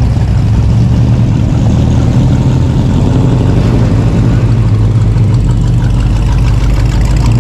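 A car engine idling loudly and steadily with a deep low hum.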